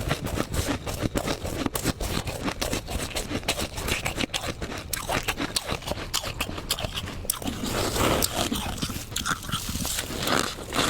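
Soft, fluffy frost being bitten and chewed: a dense, uneven run of crisp crunches and scrapes.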